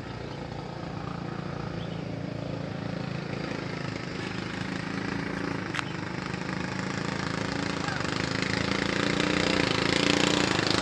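Small gasoline engines running steadily and growing louder throughout as the machines approach. A brief sharp tick sounds about six seconds in.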